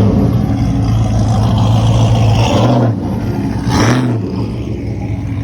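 Car engine idling loudly, with two short throttle blips about 2.5 and 4 seconds in.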